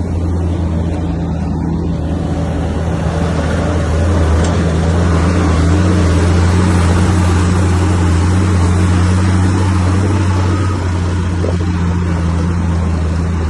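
Bulldozer's diesel engine running hard under load, a steady low drone that gets louder about four seconds in and eases a little near the end.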